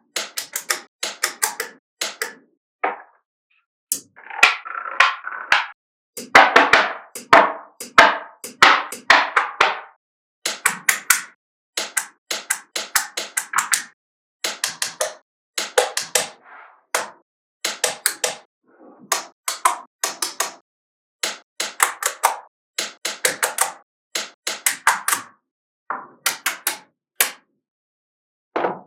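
Small magnetic balls clicking and clacking as they snap together, in quick clusters of sharp clicks with short silences between them.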